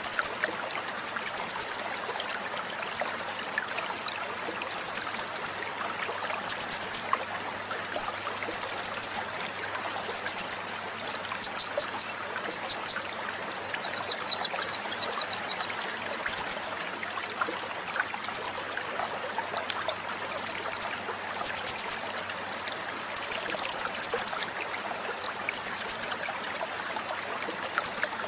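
A songbird training recording: a small bird repeats short, very high, rapidly pulsed trills about every one and a half to two seconds, with a denser chirring stretch about halfway through, over a faint steady hiss.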